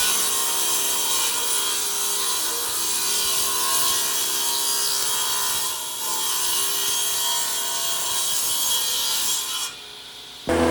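A tool rubbing and abrading wood, a steady hissing scrape that breaks off briefly about halfway and stops shortly before the end. Right at the end a different machine starts with a steady hum.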